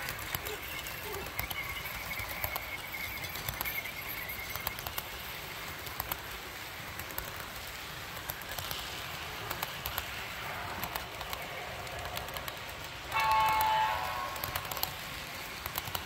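Train rolling by with a steady rumble and faint clicking. Near the end a locomotive horn sounds one chord, lasting about a second and a half.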